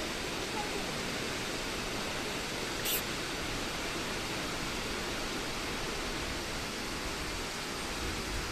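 Nachi Falls, a waterfall about 133 metres tall, pouring down as a steady, even rush of falling water. A brief high-pitched click comes about three seconds in.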